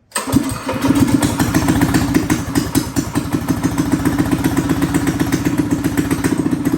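Predator 212 single-cylinder four-stroke engine on a minibike, running steadily with rapid, even firing pulses. It comes in abruptly right at the start and settles within about a second.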